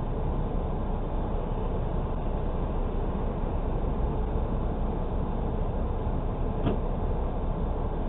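Steady rumble of a car driving, with one short click near the end.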